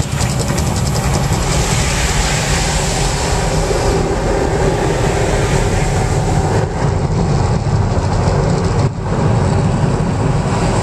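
Mirage volcano show's eruption effects: a loud, steady low rumble with a hiss over it.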